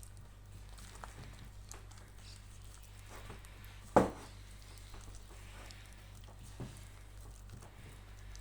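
Hands kneading egg pasta dough, with soft squishing and patting noises and one sharp thump about four seconds in.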